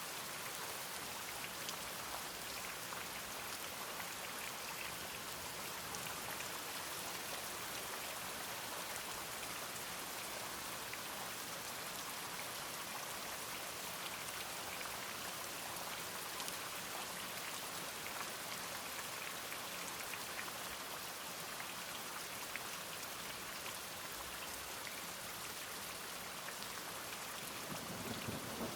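Steady rain falling in an even patter of drops. Near the end a low rumble of thunder begins to build.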